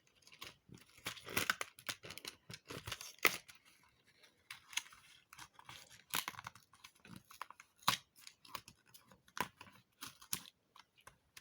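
Hands tearing open a cardboard advent calendar door and handling the packaging inside: irregular crackles, tearing and crinkling.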